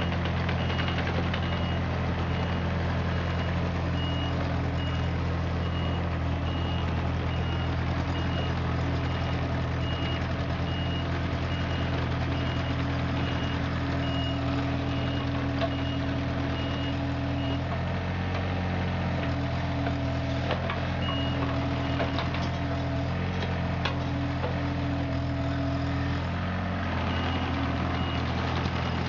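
Compact diesel excavator (John Deere 35ZTS) running, with its travel alarm beeping steadily while it moves. The beeping stops a little past halfway, as the engine note shifts, and resumes near the end.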